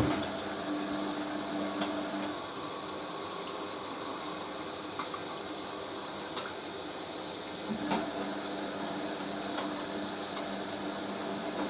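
Hoover A3060 Electronic 1100 washing machine filling with water for its first rinse while the drum tumbles: steady rush of inflowing water, with the drum motor's hum stopping about two seconds in and starting again near eight seconds as the tumble pauses and resumes.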